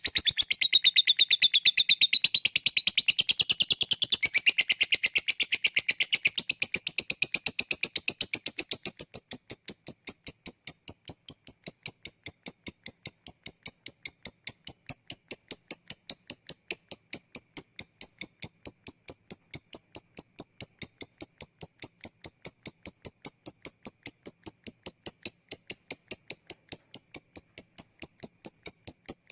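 Lovebird song: a few seconds of varied, pitch-shifting chatter, then a long, even run of short high chirps at about five a second, the clicking 'ngetik' call that lovebird keepers use as a lure to set other lovebirds chattering.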